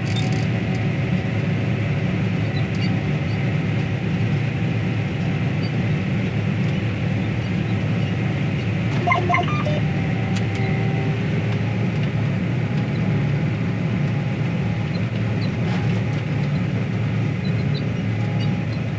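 Farm tractor running steadily, heard inside the cab: an even, low engine drone while the tractor is driven through a turn.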